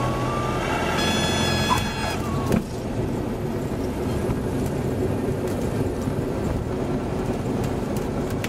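Cessna 172's engine at idle and airflow noise in the cockpit, with the stall warning horn sounding a wavering whistle-like tone in the flare. About two and a half seconds in the tone stops with a bump as the wheels touch down, and the steady rolling and engine noise carries on.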